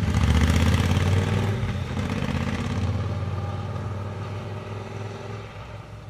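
Motorcycle engine running steadily with an even low pulse, fading out gradually.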